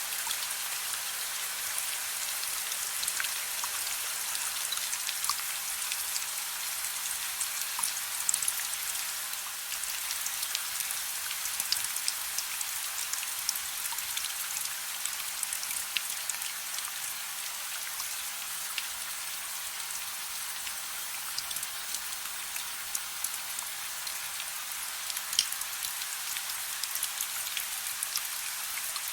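Soft, steady rain: an even hiss with many scattered sharp drop ticks and almost no low rumble.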